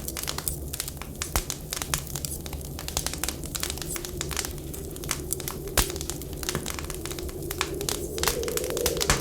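Wood fire crackling with frequent sharp pops, over a low, wavering whistle of wind that swells near the end, and a steady low rumble beneath.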